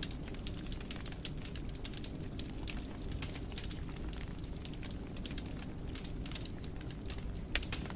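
Fire in a fireplace crackling: a steady low rustle of flames with frequent small pops and snaps, one of the louder pops near the end.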